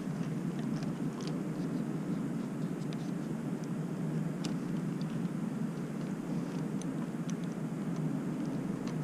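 A steady low hum, with faint scattered small clicks of a screwdriver working the two screws on a motorcycle's throttle housing cap.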